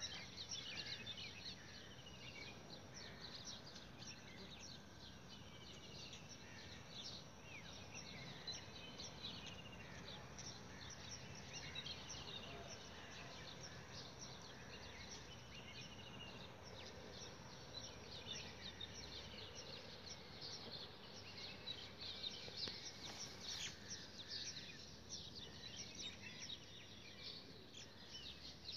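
Many birds chirping continuously, a dense overlapping chorus of short calls, over faint low background noise.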